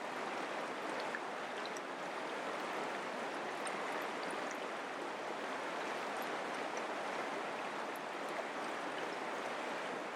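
Mountain creek running, a steady even rushing of water.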